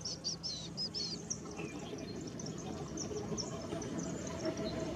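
Golden-rumped euphonia (gaturamo-rei) singing: a quick run of short, high notes in the first second or so, then fainter scattered chirps over a low steady background noise.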